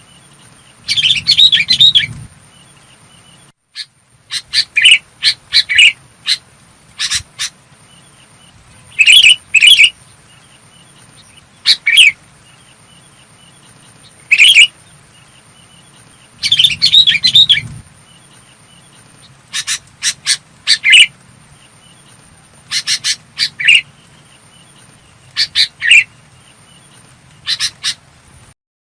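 Sooty-headed bulbul calling: short, clear chirping phrases repeated every one to three seconds, with a faint steady high whine behind them.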